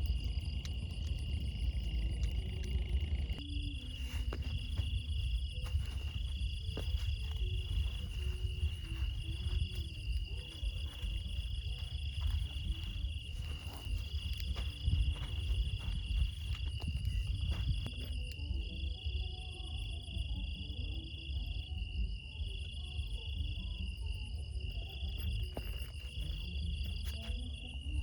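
Night insects, crickets or the like, chirping in a steady high pulsing trill, with a second trill that switches on and off in bursts of a second or two. A steady low rumble and a few faint clicks run under it.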